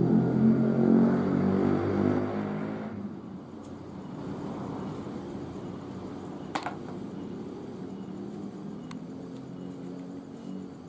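A motor vehicle's engine running close by, loud at first, then fading away about three seconds in. A single sharp tick is heard a little past the middle.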